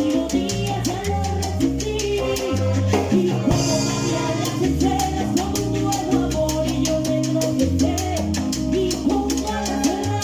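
Salsa band playing a steady groove: a bass line, dense regular percussion, and melodic lines over them.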